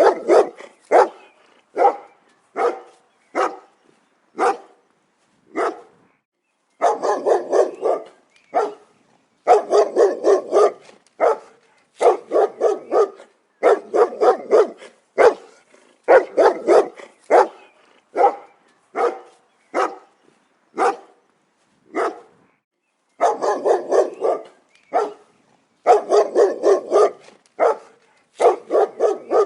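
Dog barking over and over, sometimes single barks about a second apart, sometimes quick runs of several barks, with silent gaps between them.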